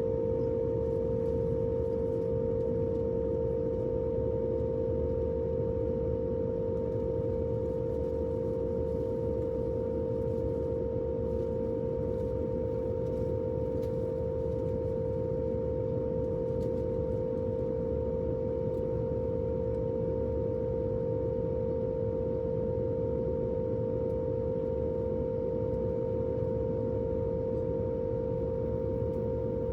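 Jet airliner cabin noise in flight: a steady low rumble of engines and airflow with a steady humming tone over it.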